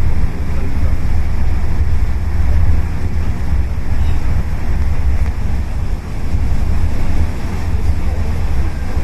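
Low, steady rumble of the Sakurajima ferry's engines and churning water as the ferry docks, with wind buffeting the microphone.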